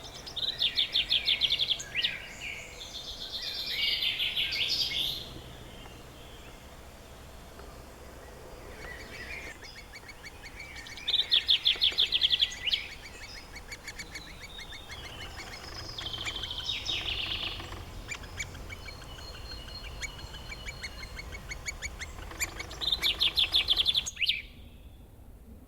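Songbirds singing outdoors: three loud, fast trilled phrases about eleven seconds apart, with quieter warbling phrases between them.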